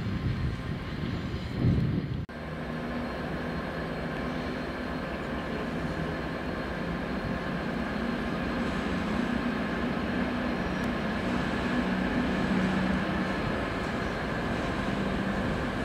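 A train running with a steady drone and a constant high whine, slowly growing louder. Before a cut about two seconds in, a heavier rumble is heard.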